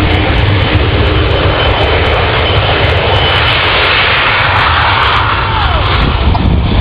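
Aircraft flying over: a loud, steady engine roar, with a short falling tone about five and a half seconds in as it passes.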